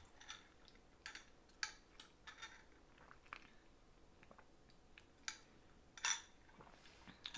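Faint mouth sounds of chewing, scattered small clicks, then a brief sip through a straw from a glass of ice water about six seconds in.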